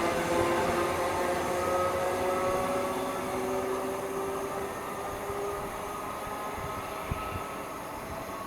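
A train's motors whining as it passes and fades, the whine slowly falling in pitch, over a low rumble. A single light knock comes about seven seconds in.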